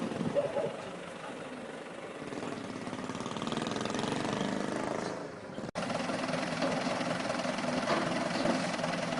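Machinery running steadily with a low mechanical hum, briefly cut off a little past halfway and then continuing.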